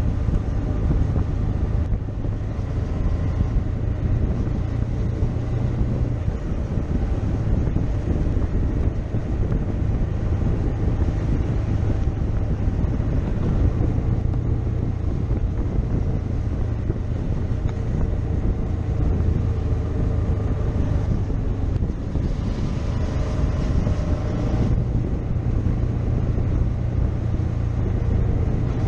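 Motorcycle engine running while riding, its low drone shifting in pitch a few times, with wind noise on the microphone.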